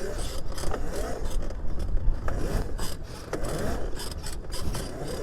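Wind and road noise from a 76-volt Razor MX500 electric pit bike being ridden, a steady rumble with scratchy hiss, and a faint whine that rises and falls a few times.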